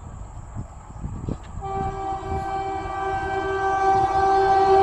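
Train running on the rails with a low rumble and a few knocks, then about a second and a half in a locomotive's air horn sounds one long, steady blast that is still held at the end, the whole growing louder.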